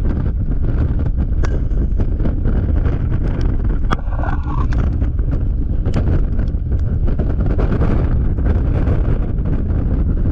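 Heavy wind buffeting on the microphone of a camera riding on a Yamaha XMAX scooter at freeway speed, with many scattered sharp ticks. A brief falling tone sounds about four seconds in.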